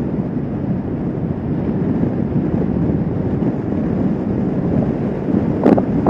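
Kawasaki Vulcan S 650 motorcycle cruising at speed: a steady rush of wind on the microphone over the bike's engine and road noise.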